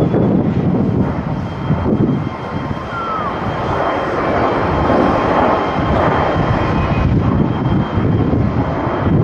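Jet airliner's engines, a loud steady rush with a heavy low rumble.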